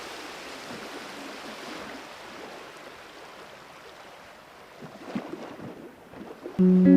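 Steady rushing outdoor ambience of wind and water, slowly fading. Guitar music comes in near the end.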